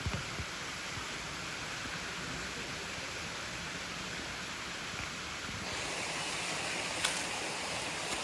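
Mountain stream water rushing steadily over rocks, growing a little louder about two-thirds of the way through.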